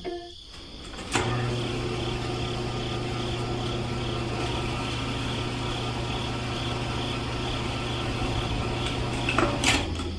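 Small electric motor switched on about a second in, running at a steady hum with a faint regular pulsing about twice a second, then switched off near the end.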